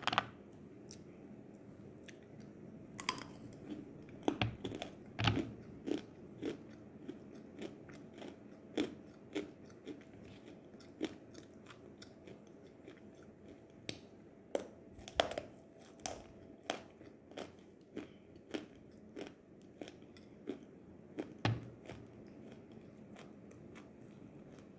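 Dry lumps of nzu (calabash chalk, an edible white clay) bitten and chewed close to the mouth: sharp crunches and crackles at irregular intervals, with a few louder bites standing out.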